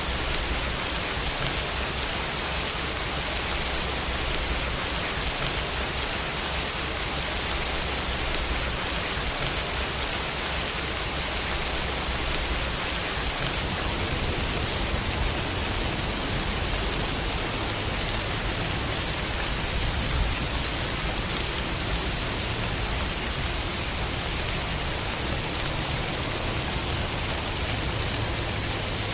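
Steady rain falling as an even, unbroken hiss, with a low rumble underneath that shifts a little about halfway through.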